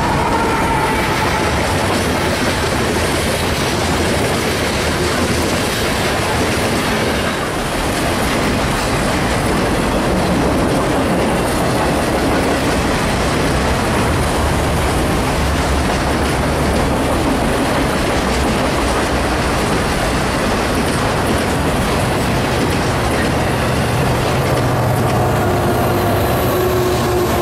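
Freight cars (covered hoppers, then autoracks) rolling past close by: a steady, loud rumble of steel wheels on rail with clatter over the rail joints. Near the end a steady hum joins as a locomotive in the middle of the train draws near.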